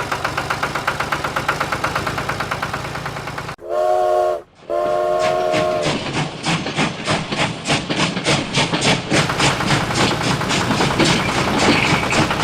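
Fast, even chugging of a small engine. A little over three seconds in it cuts out for two blasts of a multi-note horn or whistle, a short one and then one a little over a second long, before the chugging resumes.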